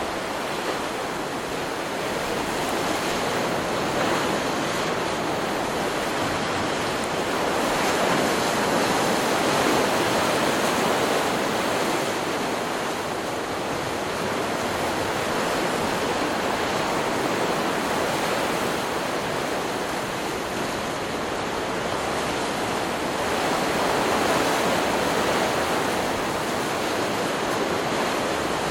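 Ocean surf: waves washing onto a beach in a continuous wash that swells louder and eases back every several seconds.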